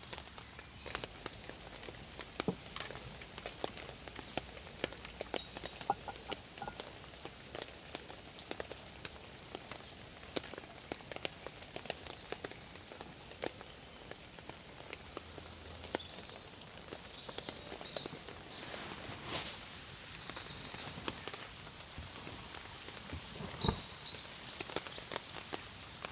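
Rain falling, with a steady hiss and many individual drops ticking sharply on a nearby surface, plus a few faint high chirps in the second half.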